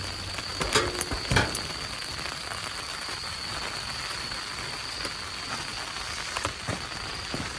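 Rain just beginning to fall: a steady hiss with a few separate sharp taps of drops landing.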